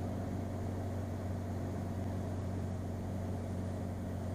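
Cirrus SR22's six-cylinder Continental engine running steadily at reduced power on final approach with full flaps, a constant drone heard inside the cockpit.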